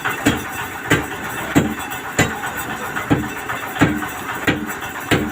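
An engine runs steadily, most likely the septic siphoning truck's, with sharp knocks about every two-thirds of a second over it.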